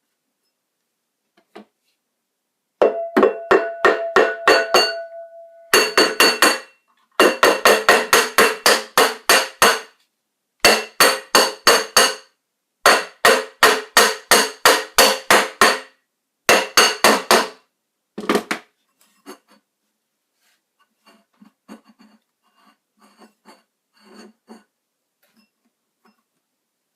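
Metal being struck rapidly over and over, about five to seven blows a second in bursts of a few seconds, each blow ringing. After about 18 s only faint scattered taps remain.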